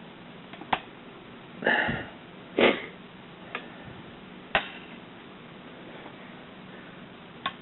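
Model airplane wing being pressed into its slot on the fuselage of a 1/200 scale Skymarks Airbus A380 model: several separate sharp clicks and two short scraping sounds as the tight-fitting parts are worked together.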